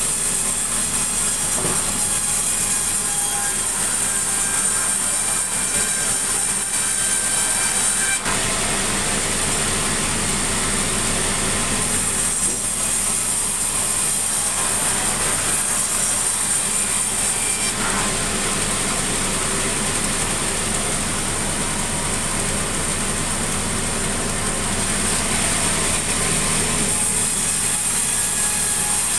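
Engine-driven sawmill saw cutting sengon timber, running steadily with a continuous high hiss over the low drone of its motor.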